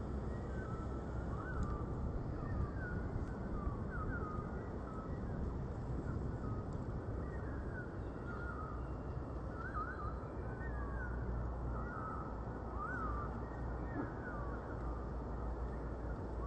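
Birds calling outdoors: many short chirps repeated every second or so, over a steady low rumbling background noise.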